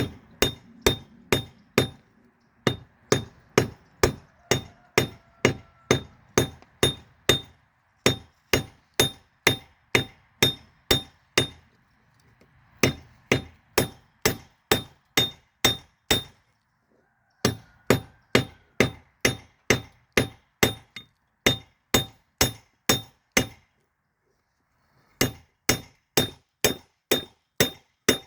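Hammer blows on a railroad-spike steel blank on an anvil, forging the kukri: sharp ringing strikes about three a second, in runs broken by short pauses.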